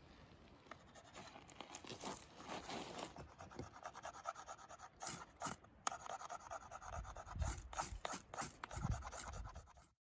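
Irregular scraping, rubbing and clicking of objects being handled, with a few sharper knocks about five to six seconds in and low thumps near the end; the sound cuts off abruptly just before the end.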